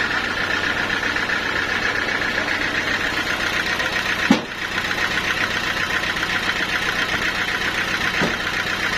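Sawmill machinery running steadily, with one sharp knock a little over four seconds in and a fainter one near the end.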